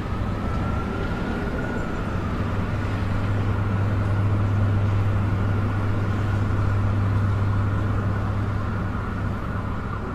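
A vehicle engine running steadily: a deep, even hum with a faint high whine above it.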